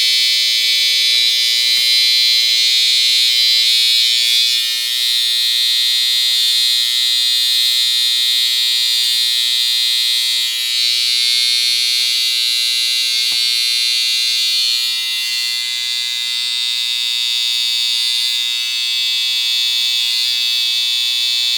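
Electric hair clippers running steadily with a loud, even buzz.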